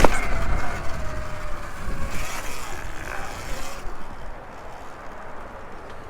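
A sharp knock right at the start, then an electric dirt bike's motor whining with a gliding pitch over rough low rumble, dying down after about four seconds.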